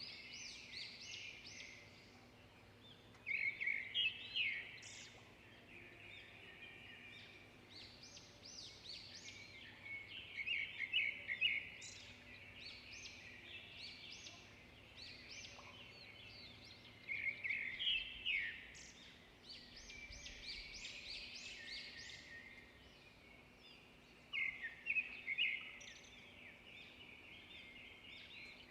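Several songbirds chirping and singing in a continuous chorus. Louder flurries of song come about every seven seconds.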